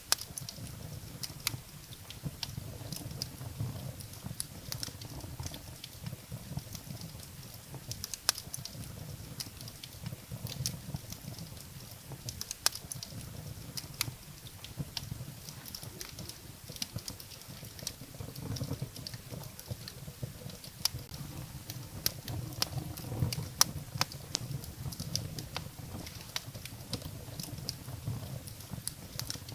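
Wood fire burning in a fireplace: firewood crackling with frequent irregular sharp pops and snaps over a steady low rumble of the flames.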